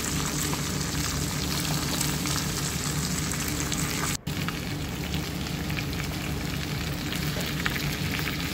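Shredded chicken, carrots and bell pepper sizzling steadily as they fry in oil in a wok. The sound cuts out for an instant about four seconds in.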